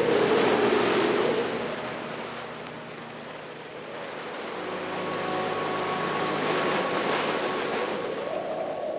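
Ocean surf washing on a beach. One wave surges in the first second and fades, and another builds from about four seconds in.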